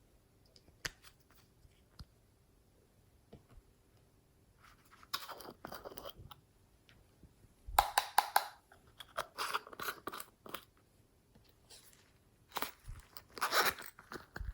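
Slime being squished and stretched by hand: sticky crackling and popping in irregular bursts, with a few single clicks first. The loudest bursts come about eight seconds in and again near the end.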